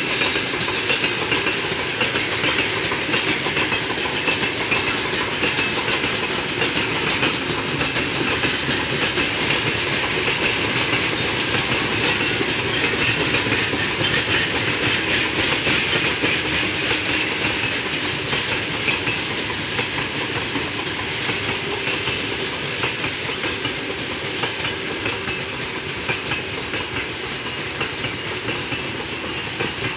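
Freight train of open gondola wagons rolling past, steel wheels rumbling and clattering on the rails with a hissing grind, as the train brakes for a yellow signal. The sound eases slowly toward the end.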